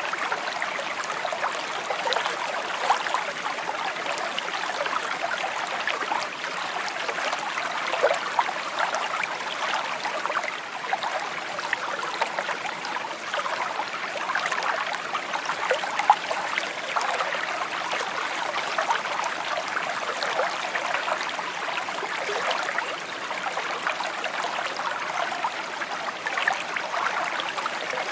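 A shallow stream trickling and babbling steadily over stones, with many small splashes and gurgles.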